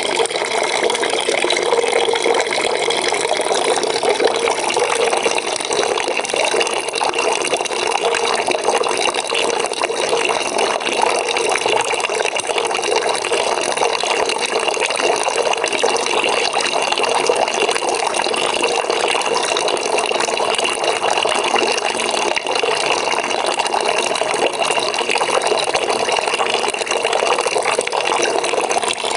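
Water pouring into a bucket as it fills: a steady, unbroken splashing rush.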